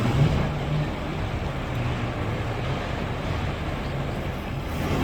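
World Rally Car's 1.6-litre turbocharged four-cylinder engine running steadily at low revs.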